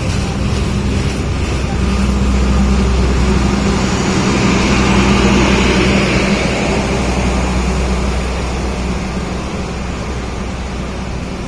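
A train passing, its diesel locomotive engine running with a steady low drone under a hiss of wheels on rail; it grows louder to about halfway through, then fades away toward the end.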